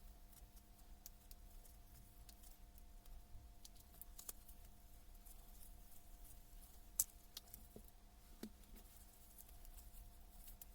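Near silence: a faint steady hum with scattered small clicks and taps, one sharper click about seven seconds in.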